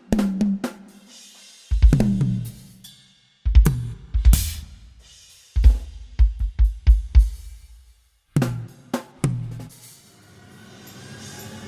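Live acoustic drum kit played in short fills and bursts with pauses between them: snare, kick, tom and cymbal hits, the low drums ringing on after the strikes. A faint rising tone comes in near the end.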